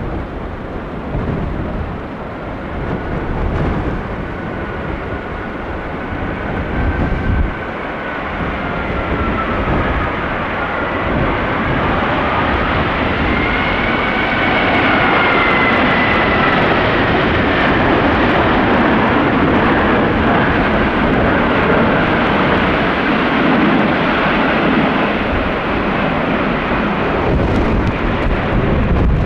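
Airbus A350-1000 airliner's Rolls-Royce Trent XWB jet engines passing on landing: a loud steady roar with a thin whine that glides up and down in pitch, growing louder through the first half and then holding.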